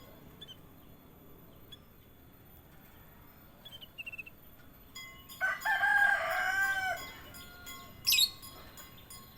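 A rooster crowing once, about 1.5 s long, starting about five seconds in, among a few faint short chirps of songbirds and one sharp high note near the end.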